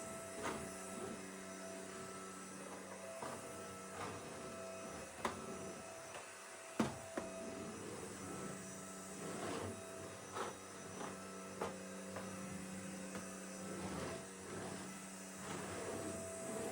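A steady electrical hum with scattered light knocks and clicks, about a dozen of them.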